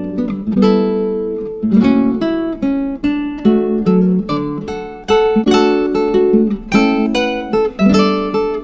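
Acoustic guitar music: plucked notes and strummed chords, each struck and left to ring out.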